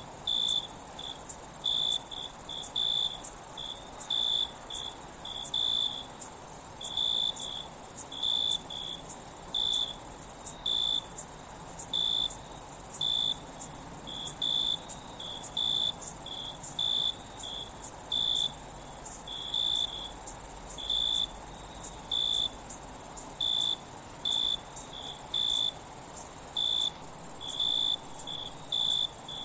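Night-time crickets chirping: short chirps repeating irregularly about once or twice a second, over a continuous high-pitched insect trill.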